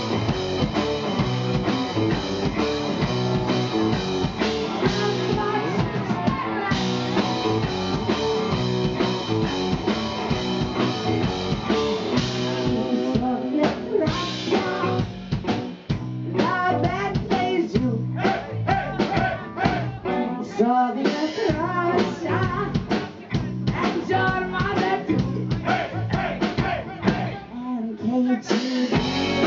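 A rock band playing live: electric guitar, bass and drum kit, with singing in the thinner middle stretch.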